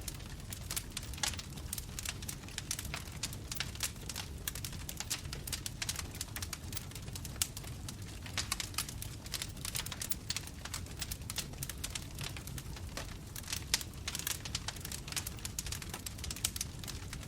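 Bonfire crackling: dense, irregular snaps and pops of burning wood over a low, steady rumble of flames.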